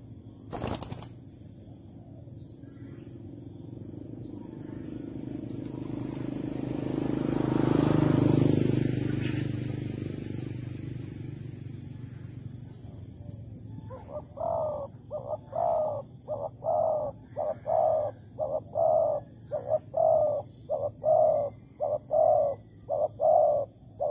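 Spotted dove cooing: a fast run of short, repeated coos in the second half. Earlier, a low rumble swells and fades.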